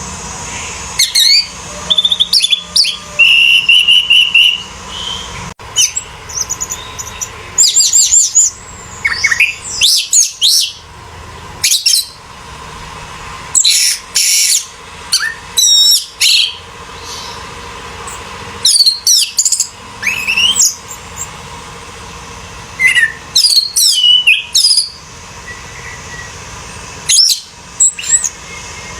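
Orange-headed thrush singing: a string of short, varied phrases of sweeping whistles and fast repeated notes, broken by pauses of a second or two.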